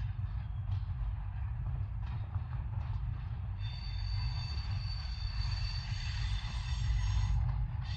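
Freight train rolling past with a steady low rumble. From about halfway in, a high steady wheel squeal rises over it for several seconds, then stops.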